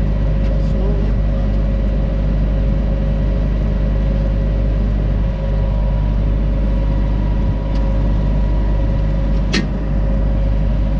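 Large farm machine's diesel engine running steadily: a deep hum with a steady whine over it. A single sharp knock near the end.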